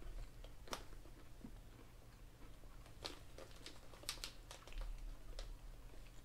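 Faint crunching of peanuts being chewed: scattered sharp crunches, one a little under a second in and a cluster between about three and five and a half seconds in, over a low steady hum.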